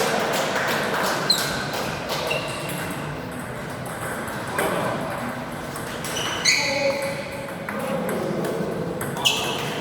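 Table tennis ball clicking sharply off bats and the table in a rally: a handful of short, irregularly spaced ticks with a brief high ring, over the murmur of a busy hall.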